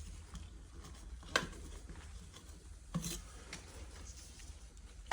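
Light handling noises with two sharp knocks, one about a second and a half in and a smaller one about three seconds in, over a faint low hum.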